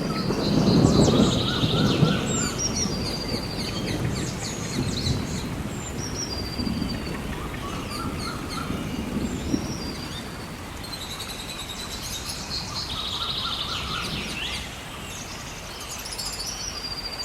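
Songbirds chirping and trilling repeatedly over a steady patter of gentle rain, with a low rumble in the first few seconds.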